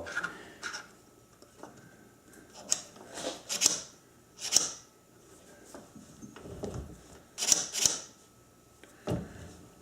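Scattered clicks and clinks of metal tools being handled at a lathe while the cutting tool is changed and set, about half a dozen sharp knocks spread out with quiet gaps between.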